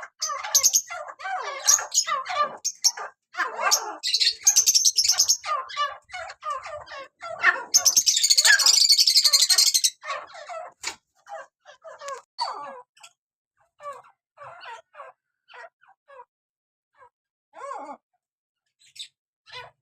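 A breeding pair of Dakhni teetar partridges calling in quick runs of short, chirping notes. There is a loud, harsh, rasping stretch about eight seconds in, and the calls thin out into scattered single notes after about ten seconds.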